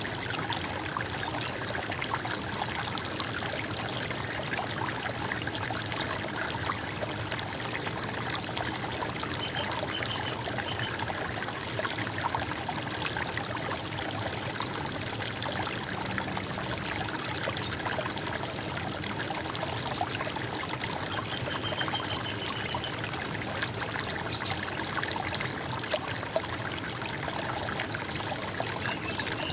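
Stream water running and trickling over rocks in a steady gurgle, with a few faint, brief bird calls now and then.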